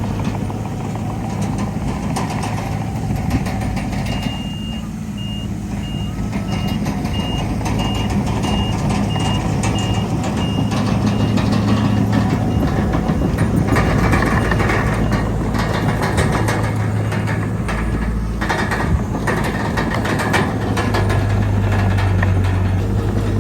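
Heavy diesel machinery running steadily while a backup alarm beeps about twice a second for several seconds, then stops. The machines work louder afterwards, with clattering noise.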